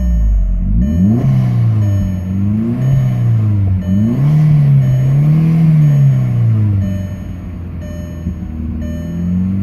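VW 1.8T AWP turbocharged four-cylinder engine being revved: a series of short throttle blips, then a longer rev held for a couple of seconds before the engine drops back to idle about seven seconds in.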